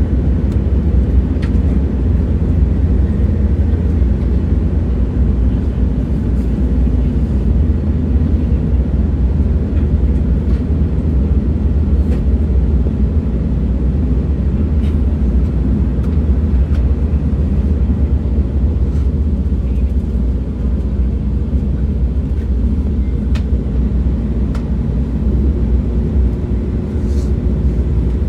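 Steady low rumble of a moving train, with a few faint scattered clicks.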